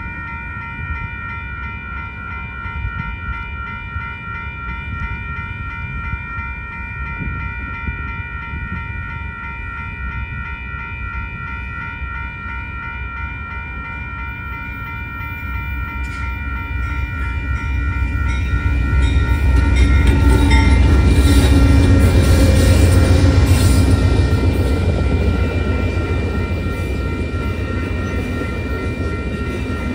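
Railroad crossing bell ringing steadily as the crossing gates come down. From about 16 seconds in, an Amtrak passenger train led by GE P42DC diesel locomotives comes through, its low rumble growing to its loudest around 20 to 24 seconds in. Its bilevel Superliner cars then keep rolling past under the bell.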